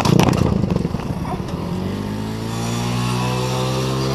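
Motorcycle engine running, rough and uneven at first, then settling into a steady tone that rises gently in pitch as it accelerates.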